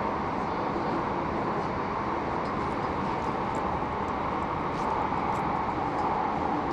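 Steady noise inside a Heathrow Express electric train carriage, even throughout with no sudden sounds.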